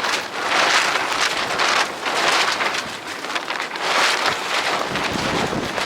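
Strong gusty wind of about 20 knots rushing over the boat and the microphone, swelling and easing in surges every second or two, with low buffeting on the microphone near the end.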